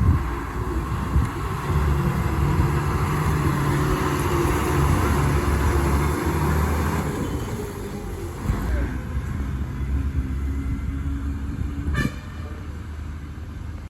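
Bus engine running steadily as a bus comes down the ghat road, with a short horn toot near the end.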